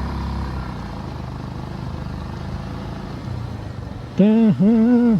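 Motorcycle engine running steadily while riding, with road rumble. About four seconds in, a rider's voice comes in loud and drawn out, as if humming or singing.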